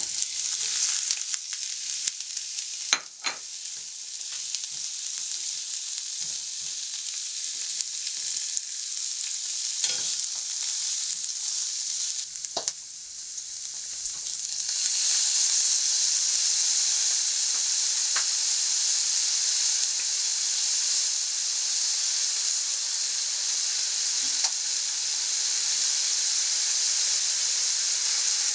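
Julienned carrot and green pepper strips sizzling in hot oil in a frying pan as they go in and are stir-fried, with a few knocks against the pan. The sizzle grows louder about halfway through.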